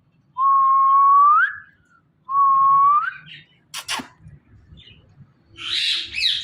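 Indian ringneck parrot whistling twice, each a long held note that sweeps sharply upward at its end. A sharp click comes about four seconds in, then rough, noisy bird calls near the end.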